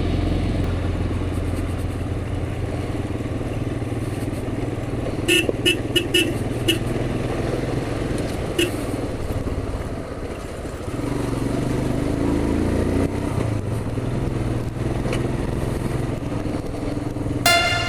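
Motorcycle engine running steadily while riding, with a quick series of short horn toots about five to seven seconds in and one more toot near nine seconds.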